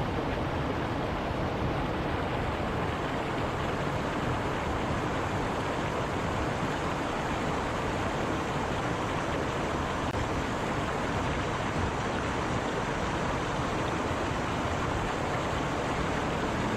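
A stream's running water, a steady, unbroken rush.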